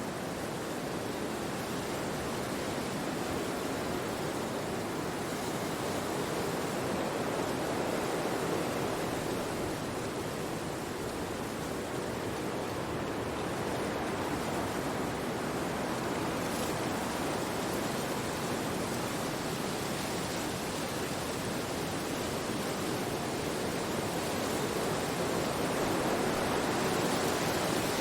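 Wind rushing through forest trees: a steady rushing that swells and eases slowly, a little louder near the end.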